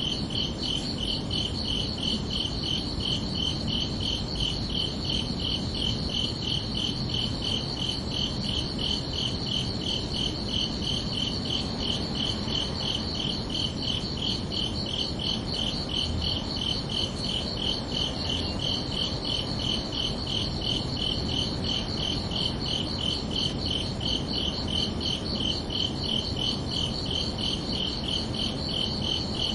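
Crickets chirping steadily in an even, rapid pulse, two chirps at different pitches overlapping, over a low constant background hiss.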